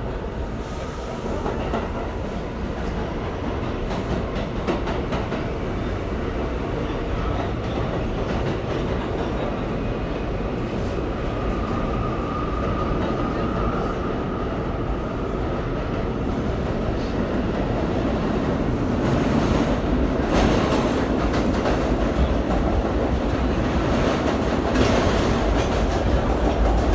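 R179 subway car running, heard from inside the car with its air-conditioning off: steady rumble with the clickety-clack of wheels over rail joints and a faint whine about halfway through. It gets louder in the last third.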